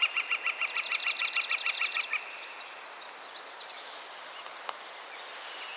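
Northern mockingbird singing: a quick run of evenly repeated notes, about seven a second, overlaid for a moment by a faster, higher trill, stopping about two seconds in. Faint background hiss follows, with a single click near the end.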